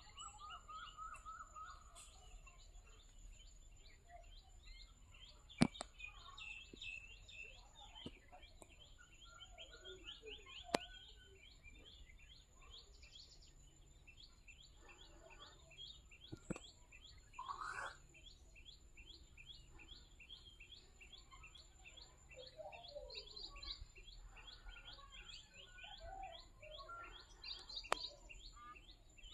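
Faint birdsong: rapid, repeated high chirps with scattered lower calls over a steady thin high tone, broken by a few sharp clicks.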